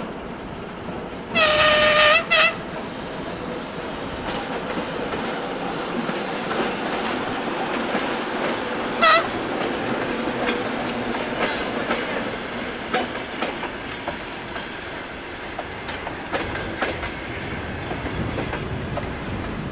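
ChME3 diesel locomotive sounding its horn: a long blast about a second in, a short second toot right after, and another brief toot near the middle. Its passenger carriages then rumble past over the bridge, wheels clicking over the rail joints.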